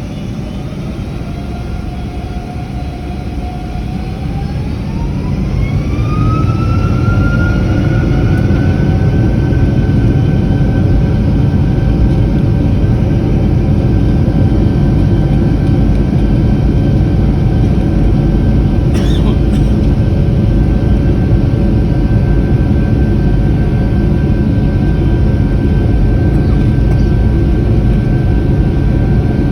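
Boeing 757's turbofan engines heard from inside the cabin, spooling up to takeoff thrust. A whine rises in pitch over a few seconds while the engine noise grows louder, then it holds steady at full power. There is a brief click about two-thirds of the way through.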